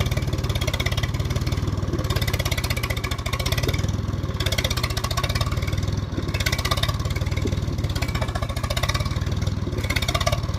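Tractor engine running hard under heavy load, a rapid, steady firing beat whose revs swell and dip a little as it strains.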